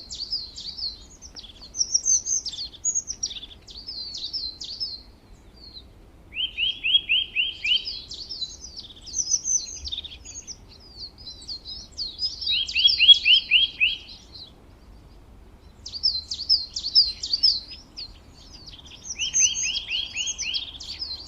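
Bird chirping and twittering in quick repeated phrases of rapid high chirps, with short pauses between phrases and a longer lull about two-thirds of the way through.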